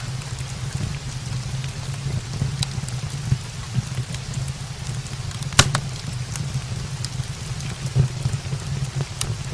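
Steady rain on the roof with a low rumble, over which a wood fire in a brick fireplace gives scattered sharp crackles, the loudest about halfway through.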